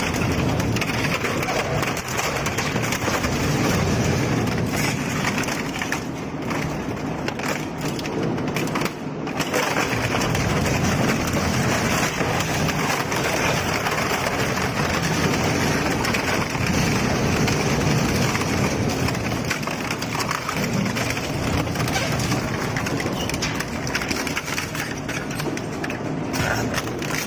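Industrial crushing or shredding machine chewing up a motorcycle: a steady heavy grinding with continual crunching and cracking of metal and plastic.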